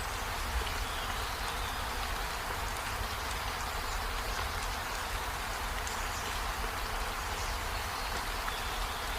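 Steady rainfall, an even hiss of drops with a few faint, sharper drop ticks.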